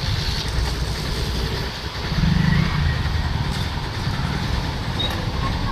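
Motorcycle and road traffic engines running, a steady low rumble that swells briefly about two seconds in.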